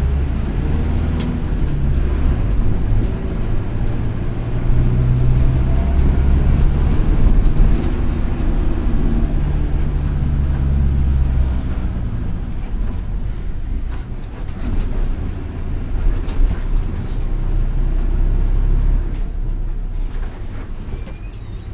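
Mercedes-Benz OF-1722M city bus's turbodiesel engine pulling under load, its pitch shifting, with a faint high turbo whistle rising and falling about a few seconds in. The engine eases off about halfway through, then pulls again briefly.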